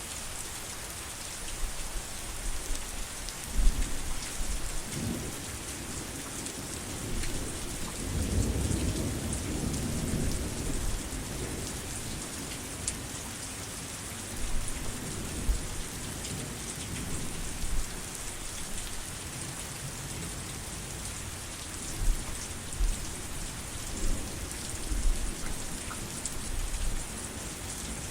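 Steady heavy rain with thunder rumbling low several times; the longest roll comes about eight to eleven seconds in.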